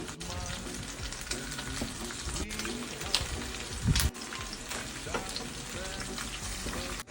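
Food sizzling as it fries in oil in a kazan. There is a dull thump just before four seconds in, and the sizzle breaks off abruptly a few times.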